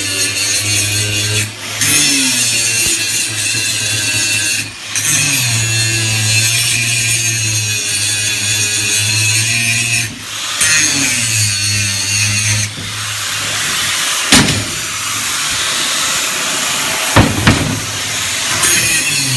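Angle grinder dressing welded steel seams, worked in several passes. At the start of each pass the motor's pitch drops as the disc bites into the metal, and it eases off briefly between passes. Two sharp metal knocks come in the second half.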